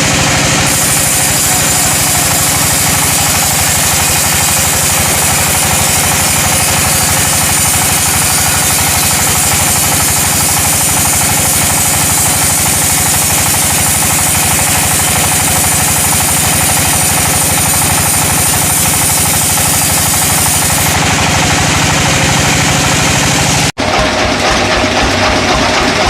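Sawmill machinery running: a steady engine drone under a loud hiss. Near the end it breaks off suddenly and is replaced by a rougher, rhythmic machine sound.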